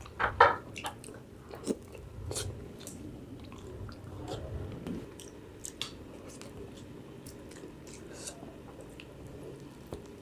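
Close-up eating sounds: biting into and chewing frozen ice cream and kulfi, with scattered sharp clicks and smacks, the loudest about half a second in.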